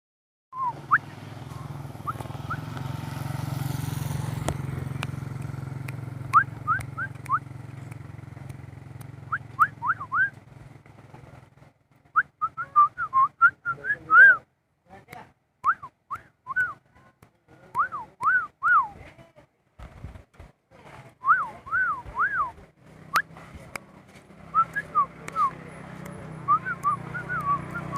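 Javan myna whistling many short clear notes that swoop up and down, in quick bursts with short pauses between them. A low steady hum lies underneath at the start and again near the end.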